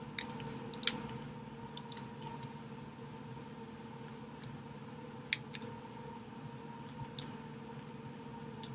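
Scattered light clicks and small handling noises as packets of spicy sauce are opened and worked over the noodles, over a faint steady hum.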